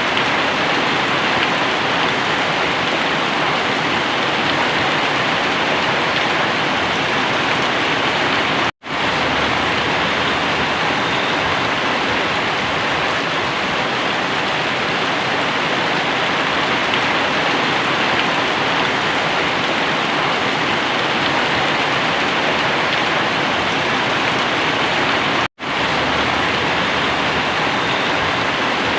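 Very heavy rain falling in a steady downpour. The sound cuts out for an instant twice.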